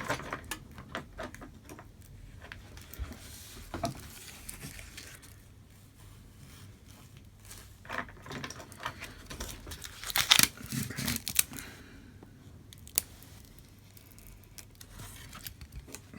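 Hands handling small items on a workbench: light clicks and taps with short bursts of crinkling, tearing plastic packaging, the loudest rustle about ten seconds in, as a replacement glass panel is taken out.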